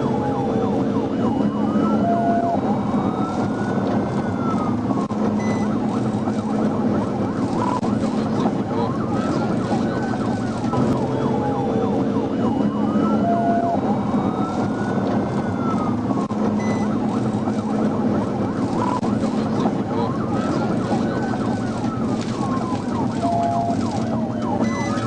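Police car siren in a slow rising-and-falling wail, repeating throughout, over a steady hum of engine and road noise.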